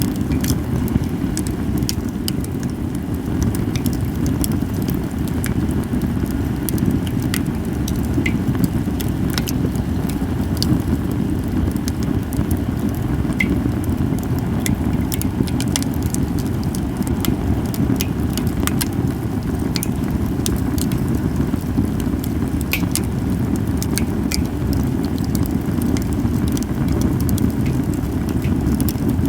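Japanese cedar (sugi) firewood burning in a campfire, crackling with frequent sharp, irregular pops over a steady low rumble.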